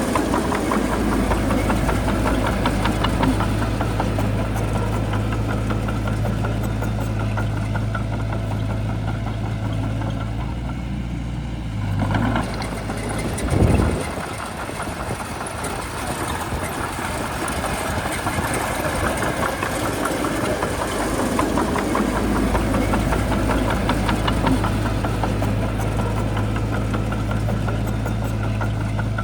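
Bulldozer's diesel engine running steadily with a deep drone. About halfway through there is a brief louder sound, after which the deepest part of the drone drops away for several seconds and then comes back.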